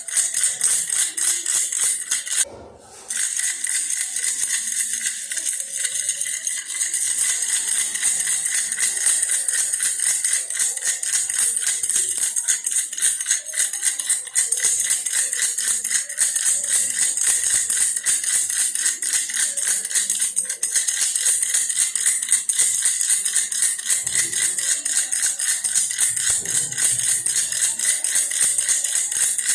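Baby's toy bear rattle shaken continuously in a fast, dense, high-pitched rattle, with a brief break about two and a half seconds in.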